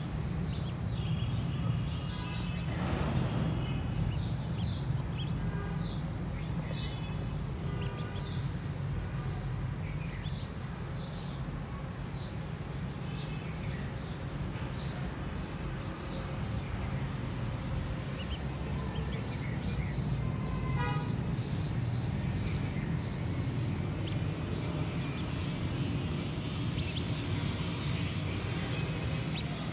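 Small birds chirping, with many short high calls scattered throughout, over a steady low background rumble.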